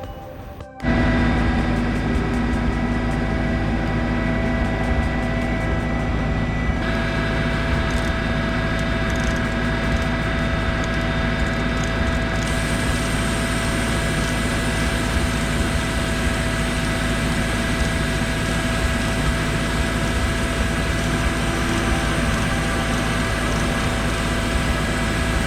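Sea-Doo GTX personal watercraft engine running steadily after a coolant-leak repair, a constant drone with a deep rumble underneath. It starts suddenly about a second in.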